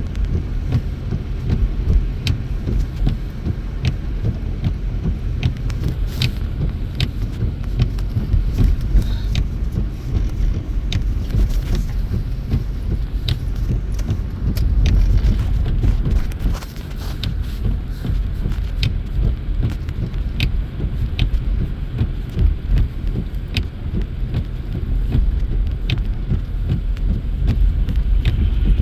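Steady low road and engine rumble inside a moving car's cabin, with short sharp clicks at a fairly even pace of about one a second.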